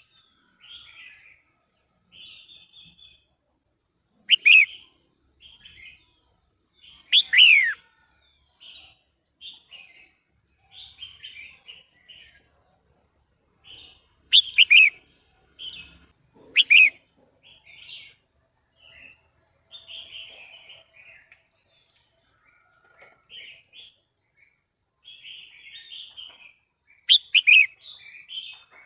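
Female red-whiskered bulbul calling: a run of short chattering notes, broken every few seconds by loud, sharp notes that slide down in pitch. These are the female's calls that excite male bulbuls.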